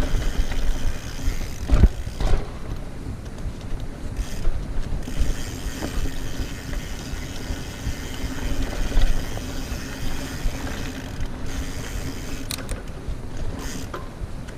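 Mountain bike's freehub ratchet buzzing steadily while coasting over a constant low rumble from the ride, with a few sharp knocks near the start and near the end.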